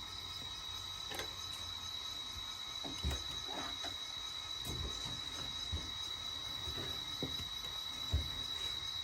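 N scale model trains running during an operating session: a steady high-pitched whine with scattered light clicks and knocks, loudest about three seconds in and near the end.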